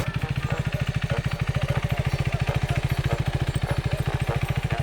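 Motorcycle engine running steadily at low revs, an even, rapid pulse with no revving.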